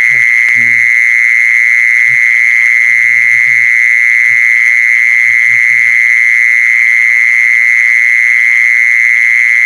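An unbroken high-pitched steady trill with short, low croaking calls breaking in at irregular intervals, about half a dozen times: an animal call meant to lure a female 'kmol'.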